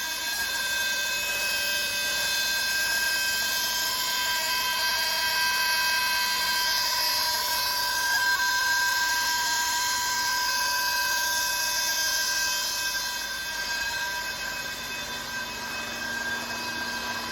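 Steady hiss with a constant high whistle from an air brake system at full pressure, the abnormal sound under investigation; it eases slightly near the end.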